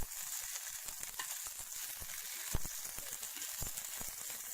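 Freshly molted young cicadas frying in hot fat in a pan: a steady sizzle with a few sharp pops.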